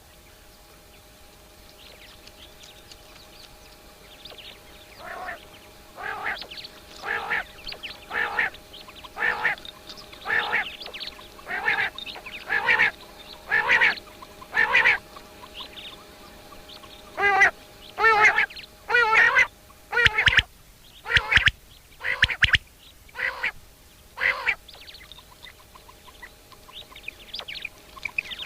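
Common quail calling: short calls repeated about once a second, coming faster for a few seconds in the middle, over a faint steady hum. A few low knocks are heard in the second half.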